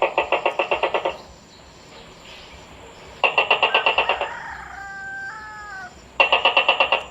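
A gecko calling in three bursts of fast, evenly repeated chattering notes, about ten a second, each burst lasting a little over a second and coming every three seconds or so. A short, slightly falling whistle-like call sounds between the second and third bursts.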